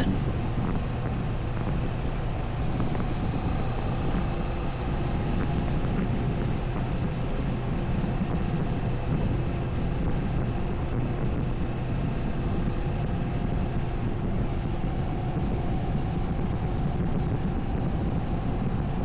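Moto Morini 6½ Scrambler's parallel-twin engine running steadily at a constant cruising speed, mixed with wind rush.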